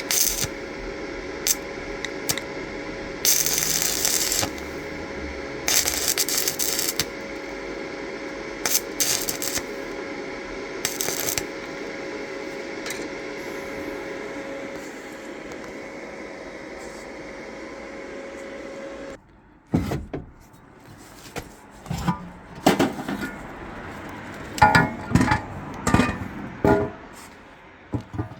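A steady machine hum, broken by a few short hissing bursts, stops suddenly. It is followed by a run of sharp metallic clanks and knocks from tools and steel parts.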